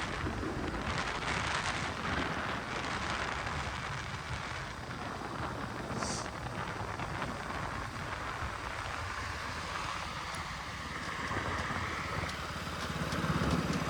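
Wind rushing over the microphone of a moving motorcycle, with the KTM RC 200's single-cylinder engine running underneath. The sound grows louder near the end.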